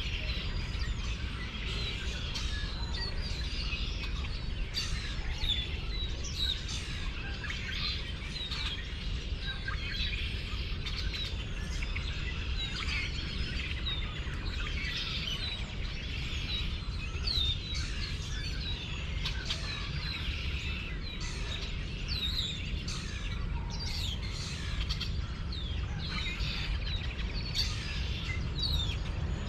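Many songbirds chirping and calling together in a dense morning chorus of short, quick chirps, over a steady low rumble.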